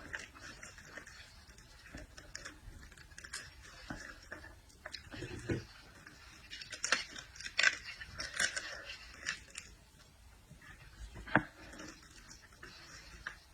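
Close-up eating sounds of someone chewing seafood: scattered wet clicks and smacks, with a cluster of sharper ones in the middle and one more about eleven seconds in.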